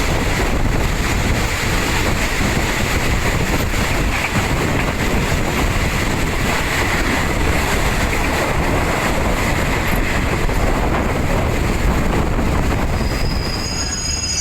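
Passenger train running at speed: a steady rumble of wheels on the rails mixed with rushing wind noise.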